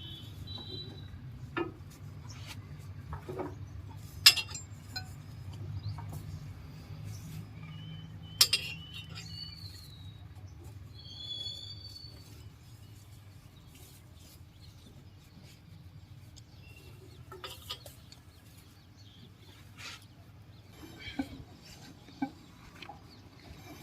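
A few sharp metallic clinks and knocks over a low steady hum that fades out about halfway, with short high bird chirps now and then.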